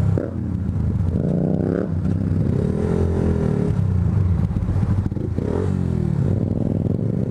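Motorcycle engines running at idle, with revs rising and falling about a second in, around three seconds, and again around five and a half seconds.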